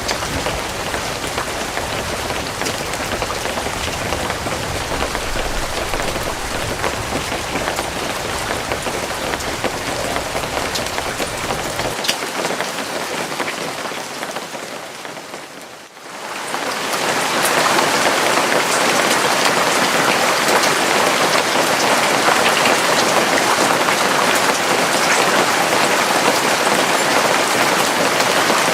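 Steady rain falling and pattering on a surface. About halfway through it fades out and a louder, brighter rain sound fades back in.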